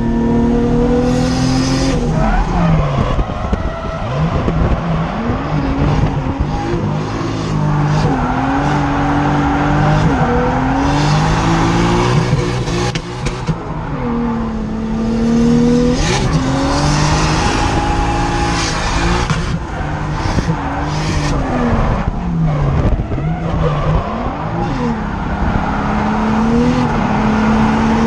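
Turbocharged RB25DET inline-six in a Nissan 240SX, heard from inside the cabin, revving up and down over and over while drifting, with tyre squeal in stretches.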